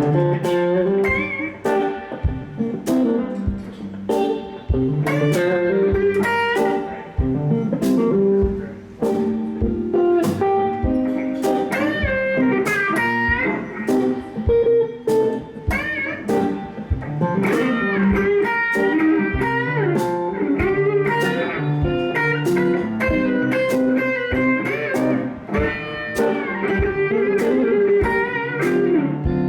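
Electric blues guitar solo with bent notes, played over a band's steady beat.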